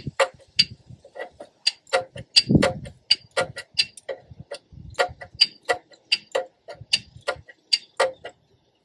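A quick, irregular string of sharp clicks, about three to five a second, with a few duller knocks among them.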